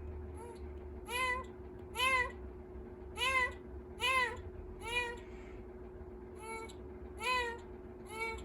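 A kitten meowing over and over: about eight short, high meows roughly a second apart, each rising then falling in pitch, over a steady hum.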